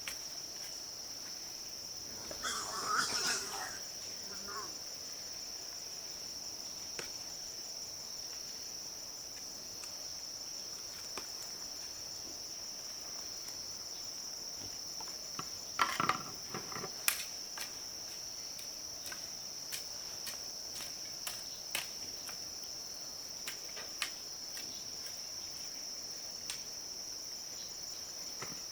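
Steady high-pitched insect chorus, like crickets, running throughout. Scattered short knocks and taps sound over it, with louder brief bursts about three seconds in and again around the middle.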